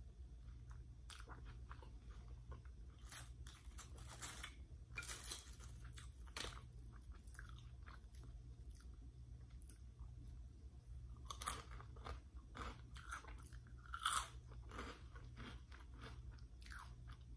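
Close-up chewing and crisp crunching of Flamin' Hot Cheetos, in scattered bites with the loudest crunches about eleven and fourteen seconds in.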